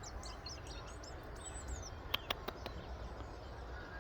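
A small songbird singing high, thin chirping phrases through the first half. A little past the middle come about four quick sharp clicks. A low steady rumble runs underneath.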